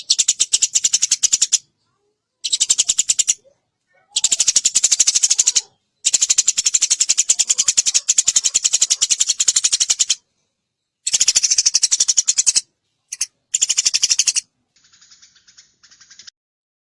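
Eurasian tree sparrow (burung gereja) chattering in bouts of very fast, evenly repeated high chirps, with short pauses between bouts and a fainter, thinner run near the end.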